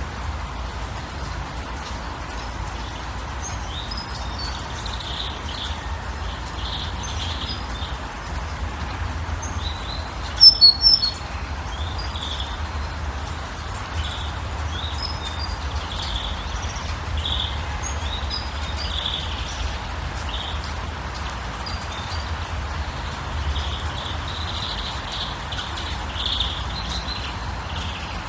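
Small birds chirping and twittering over a steady background hiss and low rumble. A louder, sharper call of several quick high notes comes about ten seconds in.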